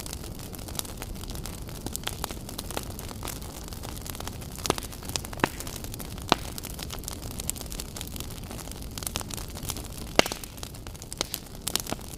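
Wood fire burning in a fireplace: a steady low rumble of flames with frequent sharp crackles and snaps, and a few louder pops.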